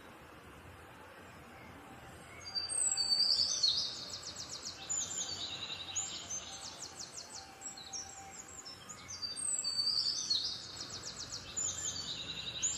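A songbird singing in two loud phrases of rapid repeated high notes, starting about two seconds in and again around nine seconds, with scattered chirps between. Under it is a faint steady hiss of a pressure-washer jet spraying a motorcycle.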